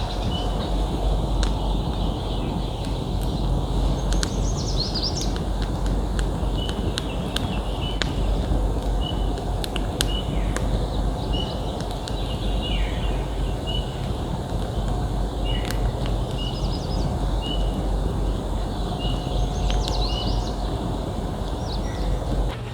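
A bird's short chirp repeating about once a second, with a few higher trills, over a steady low rumbling noise and scattered sharp crackles.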